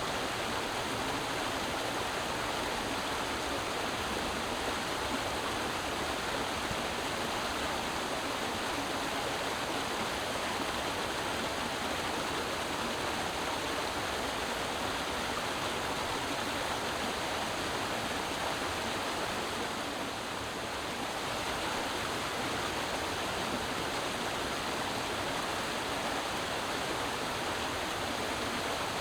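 Creek water flowing and splashing steadily over rocks, a constant rushing that dips slightly for a moment about twenty seconds in.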